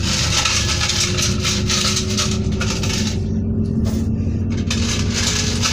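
Cabin noise of a moving Class 221 Super Voyager diesel-electric train: a steady low rumble from the underfloor diesel engines and running gear, with a hum that slowly rises in pitch and a rushing hiss that dips briefly past the middle.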